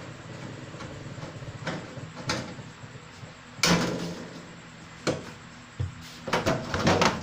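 Metal microwave oven casing being handled and opened: scattered clicks and knocks, a louder scraping rattle about three and a half seconds in, and a quick run of knocks and rattles near the end.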